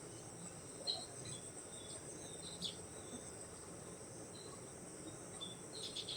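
Insects calling in farmland: a steady high-pitched drone with short high chirps scattered through, and a fast pulsing trill that begins near the end.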